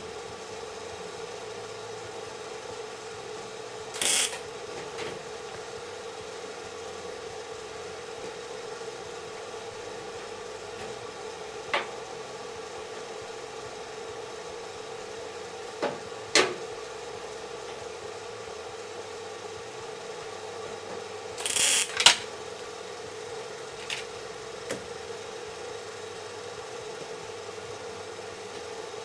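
Two short bursts of welding, tack welds on sheet steel, one about four seconds in and a longer one about two-thirds of the way through, with a few scattered clicks and taps over a steady hum.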